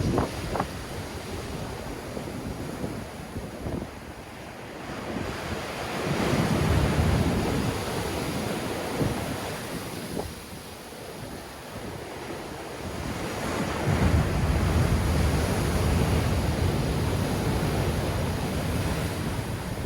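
Sea waves breaking and washing on the shore in strong wind, with wind buffeting the microphone. The surf swells up twice, about six seconds in and again around fourteen seconds, easing off between.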